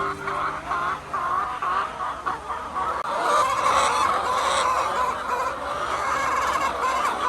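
A flock of egg-laying hens clucking, many calls overlapping into a steady chorus.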